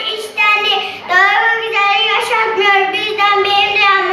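Young children singing a song, holding long notes with short breaks between phrases.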